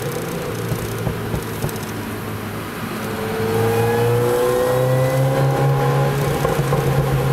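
Car engine heard from inside the cabin over tyre and road noise, pulling harder and rising in pitch as the car accelerates a little over three seconds in.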